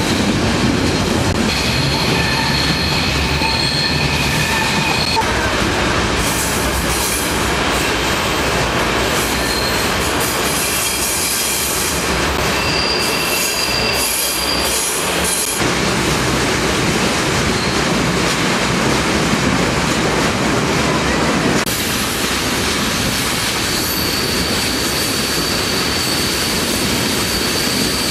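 Flåm Railway passenger train running on the rails, heard from inside a carriage: a steady rumble of wheels and coaches with high-pitched wheel squeal on the curves, a few seconds in, around the middle, and a long squeal near the end. The noise turns hissier through a tunnel around the middle.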